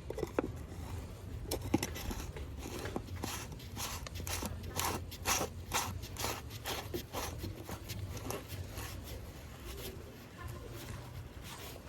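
Ratchet wrench clicking in irregular runs, with metal tool scraping, over a low steady hum; the clicks are thickest in the first half and thin out later.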